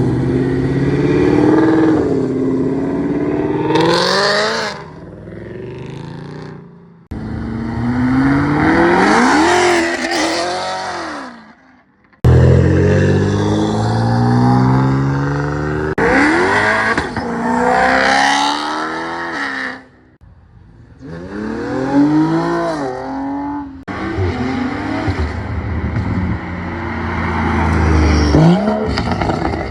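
Cars accelerating hard away from a car meet, one after another. Each engine note climbs steeply as the car revs out, and the sound cuts off suddenly between passes.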